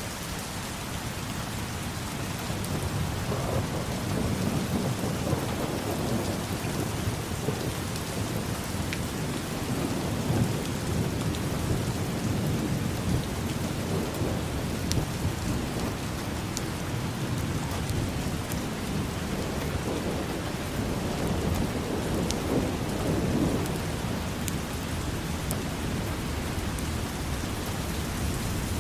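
Steady rain falling, with low rumbles of thunder that swell and fade several times, and a few sharp drip ticks.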